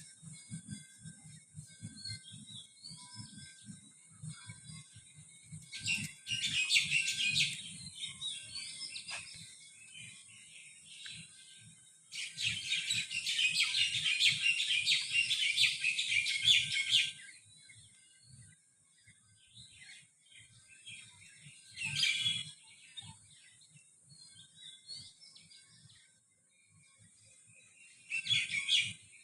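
Songbirds singing and chirping in bursts, with one long, dense stretch of rapid chattering song in the middle and shorter bursts before and after it. A steady faint high hiss runs underneath, and a low irregular rumble is heard in the first few seconds.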